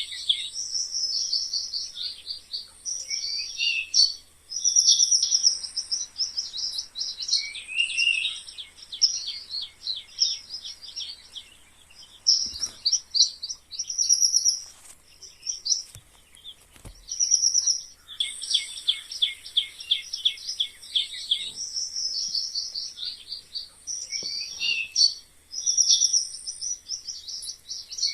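Mice squeaking: trains of rapid, high-pitched squeaks, a second or two each, following one another with only brief pauses.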